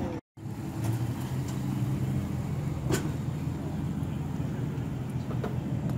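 A car engine idling steadily, a low even hum. The sound drops out completely for a moment just after the start, and there is a single faint click about three seconds in.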